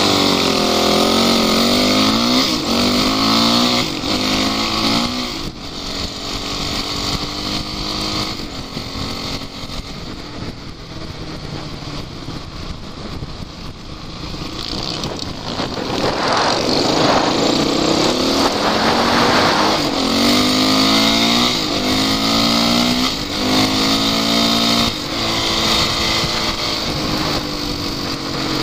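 Off-road vehicle's engine revving up and down over and over, its pitch rising and falling with the throttle as it is driven through the terrain. A stretch of louder rough noise comes a little past the middle.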